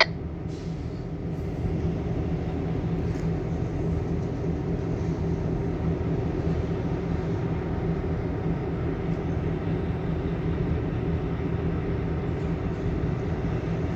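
Diesel-electric freight locomotives running with a steady, low, even drone, which grows slightly louder about a second and a half in.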